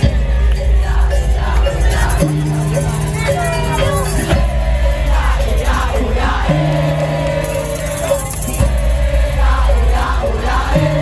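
Madurese tong-tong street band music, with sustained bass notes that change about every two seconds, and a crowd shouting and whooping over it.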